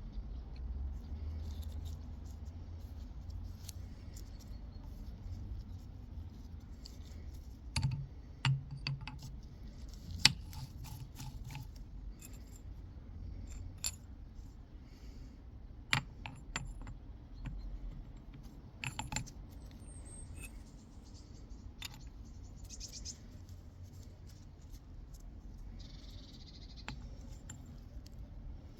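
Scattered metallic clinks and knocks of small steel gearbox parts (shift sleeve, washers) being handled, a dozen or so separate strikes over a low steady hum.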